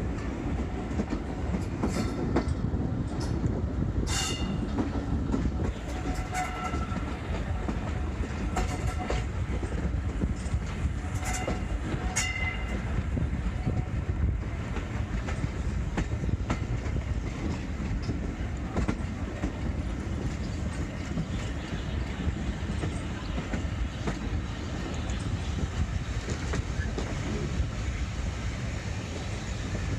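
Steam-hauled heritage train running on the rails: a steady low rumble with wheel clatter, and a few short sharp clicks and brief squeals in the first half.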